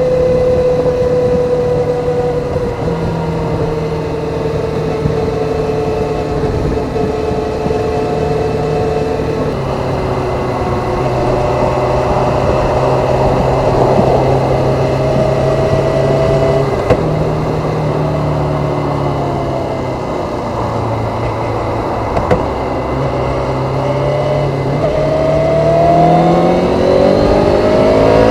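Kawasaki ZZR400 inline-four engine through its stock exhaust, running at steady revs with small shifts in pitch, then revving up over the last few seconds as the bike accelerates.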